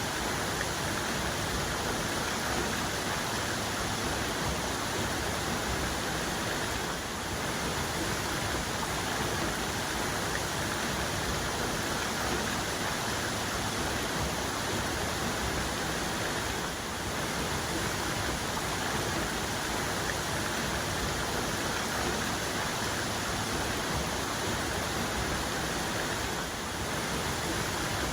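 Waterfall's main cascade: water falling and splashing in a steady, dense rush.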